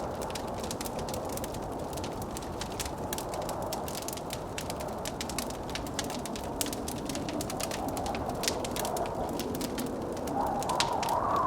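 Wood fire crackling in a fireplace with frequent small pops, over the steady rush of blizzard wind that swells near the end.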